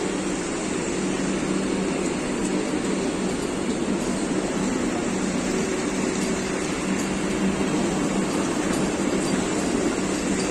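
Vande Bharat electric trainset at a station, giving a steady, even hum with a constant low drone and no wheel clatter.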